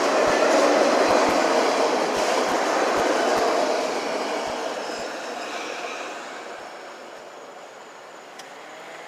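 Freight train cars rolling past, wheels clacking over rail joints, the rumble fading away over the second half.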